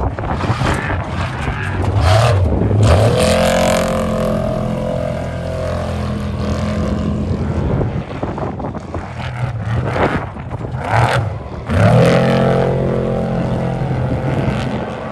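Off-road race vehicle engines running hard. The pitch and loudness rise twice, about two to three seconds in and again near twelve seconds, over a steady low rumble.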